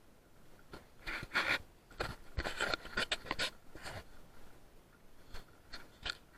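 Irregular scraping and rustling noises, with a few short sharp clicks near the end.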